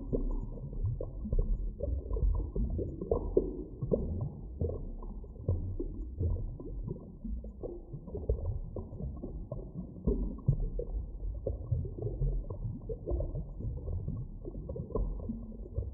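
Muffled underwater ambience: a deep, constant rumble with frequent short, irregular pops and crackles.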